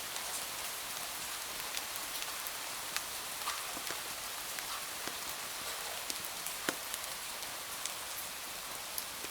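Steady rain with a constant hiss, dotted with scattered sharp ticks and pops at uneven times.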